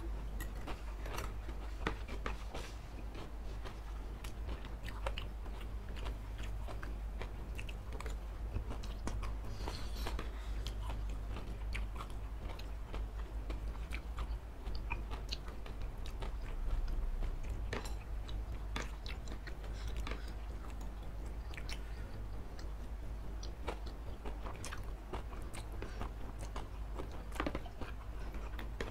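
Close-up chewing and biting of fried noodles and chicken and beef satay, with many short sharp clicks from mouths and from spoons and forks against the dish, over a steady low hum.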